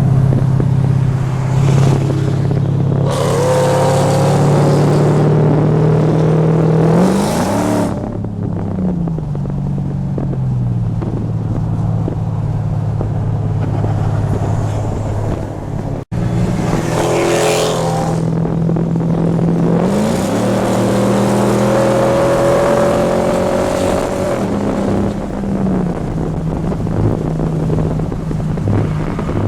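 Mercedes-Benz E55 AMG V8 engines droning at highway speed, with runs of hard acceleration where the engine note rises and then drops at the gear changes, once about a quarter of the way in and again past the middle, with a loud rush of wind and road noise. The sound cuts out for an instant about halfway through.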